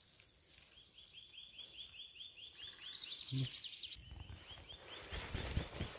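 A bird sings a long run of quick, evenly repeated whistled notes, about four or five a second, with a short break partway through. Soft low thumps come in the second half.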